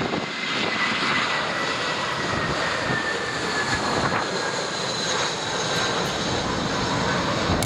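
Jet airliner engines running as the plane passes on approach to land: a steady roar with a high whine that slowly falls in pitch.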